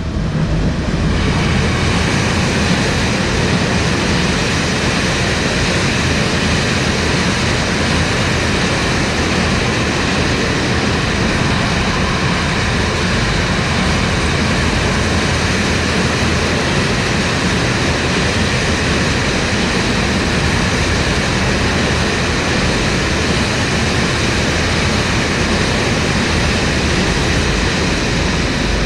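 Electric-hauled train passing close by, a loud steady noise of wheels rolling on the rails that builds up about a second in and then holds.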